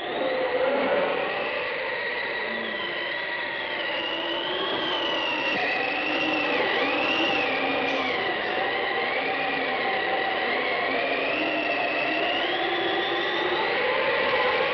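Eerie Halloween sound effect: high wavering tones that slide up and down, like a ghostly wail, over a steady whirring, rushing noise.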